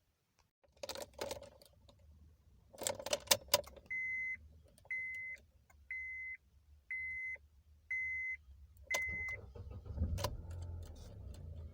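Car keys jangling, then a Honda Accord's warning chime beeping six times, about once a second. About ten seconds in there is a thump, then the engine runs with a steady low hum.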